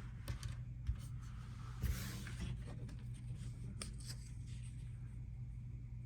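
Hands sifting through loose plastic LEGO pieces: scattered light clicks and a soft rustle, over a steady low hum.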